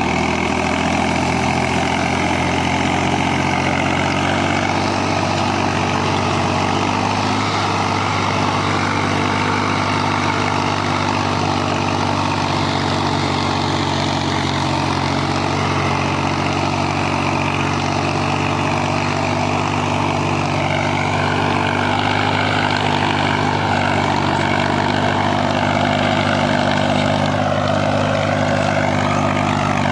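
Tractor engine running at a steady speed while ploughing, an even, continuous drone that holds without change.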